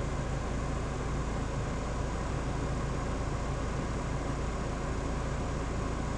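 Steady hum of a car's engine and road noise heard from inside the cabin while driving on an icy road, even and unchanging.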